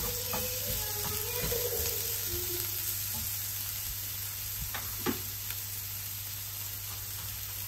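Broccoli and sliced red onion sizzling in oil in a frying pan, with a few sharp knocks as a wooden spatula stirs; the loudest knock comes about five seconds in.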